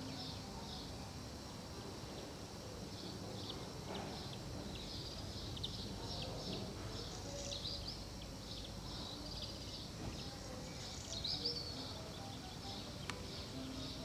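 Small birds chirping and twittering in short high repeated calls over a steady low outdoor background noise, with a single sharp click near the end.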